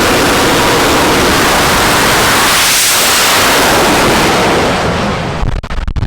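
Jet truck's jet engine at full power: a loud, even rush of noise that sweeps past about three seconds in, then drops off and turns uneven after about five seconds.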